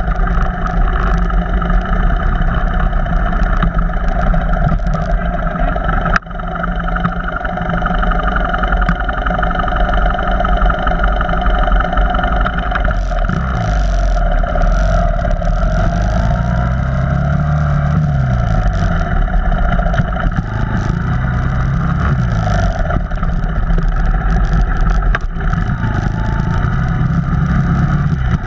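Off-road vehicle engine running while under way on a trail, its pitch rising and falling with the throttle through the middle of the stretch, with a brief dip in level about six seconds in.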